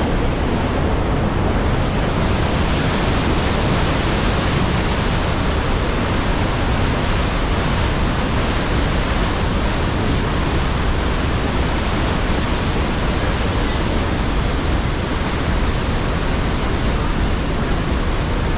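Large waterfall rushing: a loud, steady wash of falling water.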